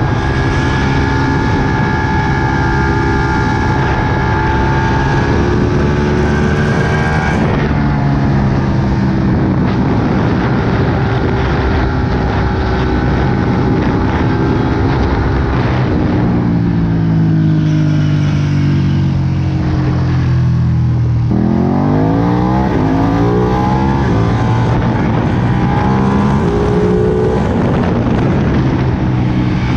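Ducati Panigale 959's V-twin engine under way at speed. It holds a steady note, sinks in pitch over several seconds as it slows about halfway through, then climbs sharply as the throttle opens and it accelerates again, rising once more near the end.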